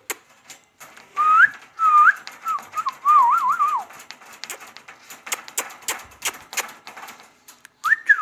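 Whistling in pure notes: two short rising whistles about a second in, then a quick wavering run of notes that falls away, and another wavering whistle near the end, with many sharp clicks in between.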